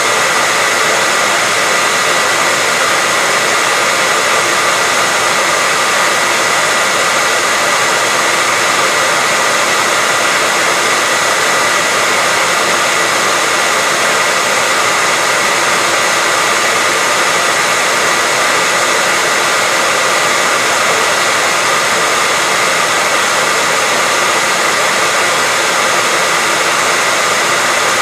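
Hair dryer running steadily: a constant rush of air with a steady high whine from its motor and fan.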